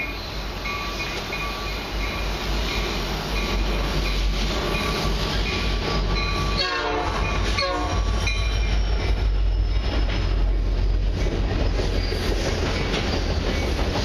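Diesel locomotives leading a freight train upgrade, their engine rumble growing steadily louder as they approach. Two short horn blasts sound about halfway, bending in pitch as the locomotives go by.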